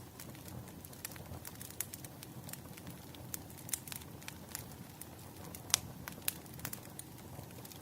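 Burning firewood crackling: irregular sharp pops and snaps, several a second, over a low steady rumble.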